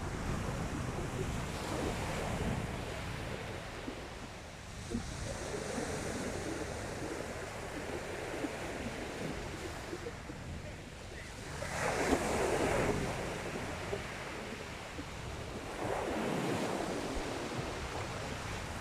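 Sea waves breaking and washing on the beach, a steady wash with bigger waves surging about twelve seconds in and again about sixteen seconds in. Wind buffets the microphone throughout.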